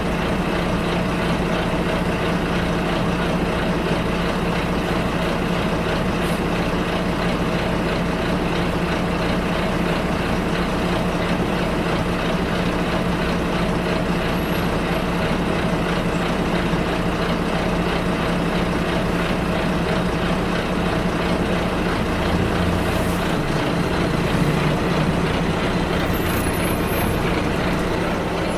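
Bus engine running steadily with road and cabin noise, heard from inside the bus. The engine note shifts about three quarters of the way through.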